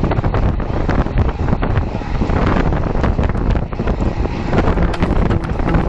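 Steady, loud wind noise buffeting the microphone of a camera carried on a moving rider, with a rumbling low-end rush and no speech.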